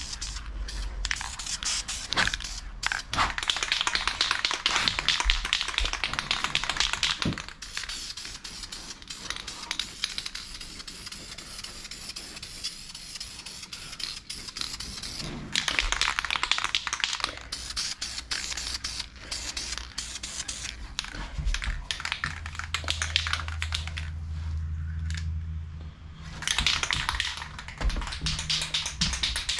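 Aerosol can of high-temperature enamel engine paint spraying: long hissing runs of several seconds with pauses between, and scattered clicks.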